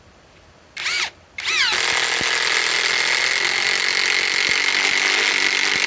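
Bauer brushless compact impact wrench blipped briefly about a second in, then spinning up and hammering steadily as it drives a long T30 lag screw into timber.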